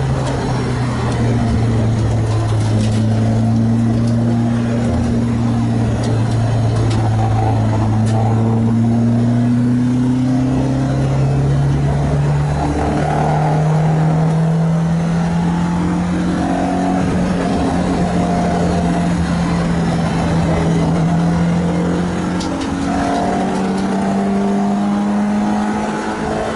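Renault Clio 2 RS MiniCup's freshly rebuilt 2.0-litre four-cylinder engine running under load. The engine note holds steady for the first dozen seconds, then climbs slowly in pitch until near the end.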